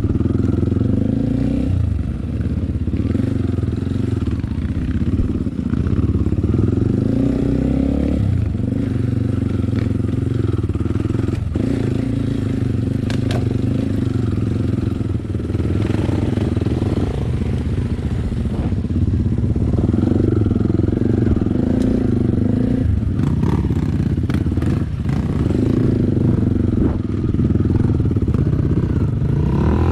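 Enduro motorcycle engine running under way, its pitch rising and falling every few seconds with throttle and gear changes, with a few brief knocks.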